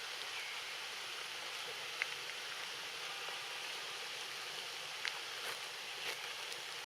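Steady rain falling, an even hiss with a few sharp ticks scattered through it; it cuts off suddenly just before the end.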